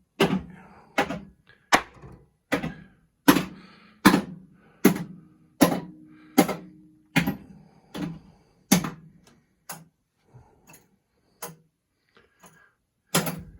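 Attack from Mars pinball machine's solenoid coils firing one after another in the coil test: a sharp clack about every 0.8 s, with a few fainter ones near the end and a last loud one.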